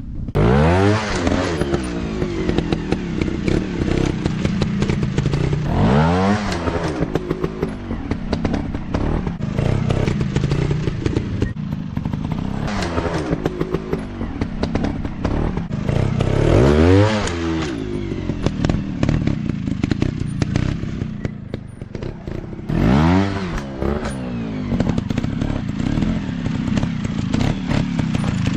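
Dirt bike engine running at low revs and revving up sharply about every five or six seconds, the pitch rising with each throttle burst, with clatter and thumps from the bike working over rough ground.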